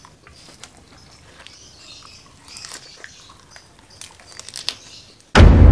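Close-miked chewing of chili-coated shrimp and curly lettuce: wet mouth clicks and crisp crunches. Just before the end, a sudden very loud, deep hit cuts in and slowly fades.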